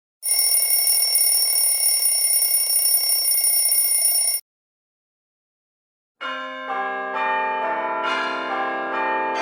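An electric bell rings without a break for about four seconds and cuts off sharply. After a short silence, bells begin pealing, many strokes entering one after another and ringing on over each other.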